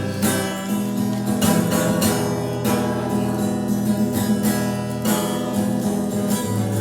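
Acoustic guitar strumming chords in steady rhythm, an instrumental break between sung verses of a song.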